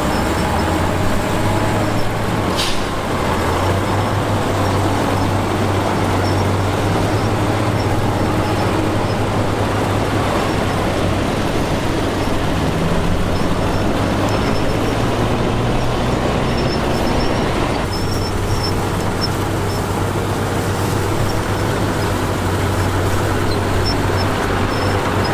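Heavy diesel engines of earthmoving machinery running steadily with a deep low hum, and a brief hiss about three seconds in.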